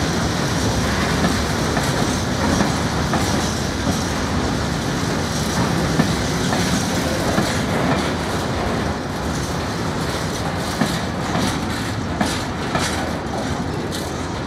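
Freight train's hopper wagons rolling past, their wheels clicking rhythmically over the rail joints. The last wagon passes near the end.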